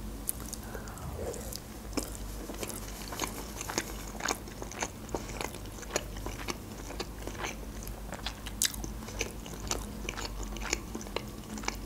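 Close-miked chewing of a mouthful of food, with many short, sharp, irregular wet mouth clicks and smacks.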